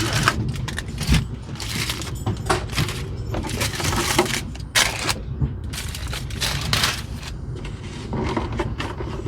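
Irregular clatter, knocks and scraping of dinnerware and food containers being handled on a small table, over the steady rumble of a moving passenger train.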